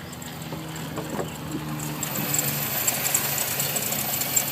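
A 2000 Subaru WRX STi's flat-four engine idling with a fast, light ticking knock. Both get louder toward the end. The owner takes the ticking for engine knock.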